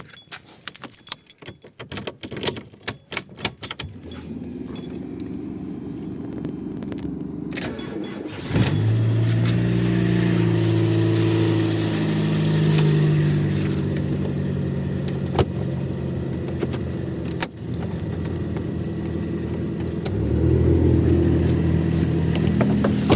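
Fiat Punto 1.2's four-cylinder engine started cold at about −10 °C. Keys jangle and click, the engine cranks for a few seconds and catches about eight seconds in, then it settles into a cold idle that wavers in pitch and rises again near the end.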